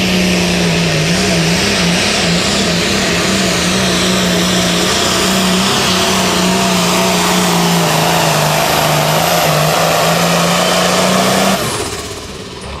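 Pro Farm class pulling tractor's turbocharged diesel engine running flat out under load down the track, its note wavering and sagging slightly lower as the sled bears down. The engine sound drops away suddenly near the end as the run finishes.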